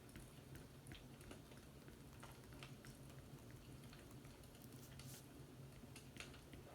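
Faint fireplace crackling: scattered, irregular small pops and snaps over a low steady hum.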